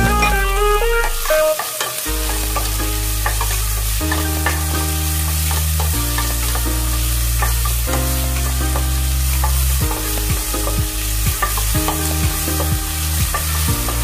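Chopped onions sizzling in a stainless steel pot, with a spoon scraping as they are stirred. Background music plays over it, its bass note changing about every two seconds.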